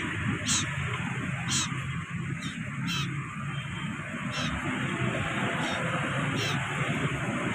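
Common iora (cipoh or sirtu) giving short, high, wavering chirps, about seven of them at irregular intervals, over a steady low hum.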